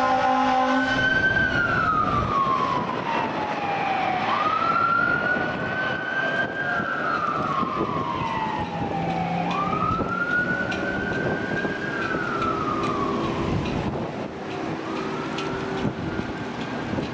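Fire engine responding: a steady air-horn blast cuts off under a second in, then the siren wails in about three long cycles, each jumping up, holding high and sliding down. The wail grows fainter near the end over the truck's running and road noise.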